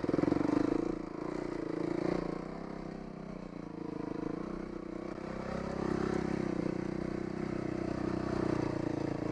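Dirt bike engine running as it is ridden along a trail, its note easing off about a second in and picking up again later.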